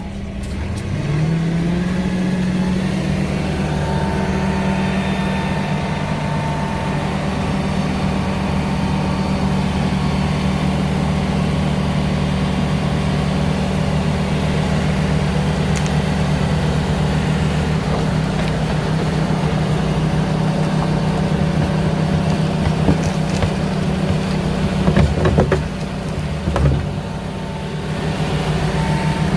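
Diesel excavator engine revving up in the first couple of seconds, then running steadily at high throttle while digging, with a few knocks near the end.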